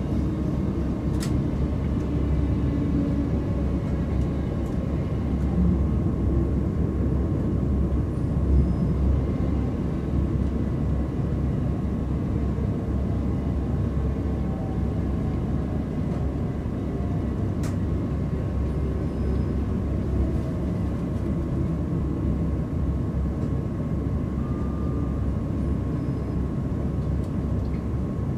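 Steady cabin noise inside a Class 387 Electrostar electric multiple unit: a low rumble with a faint hum and gently gliding whine. Two sharp clicks stand out, one about a second in and one past the middle.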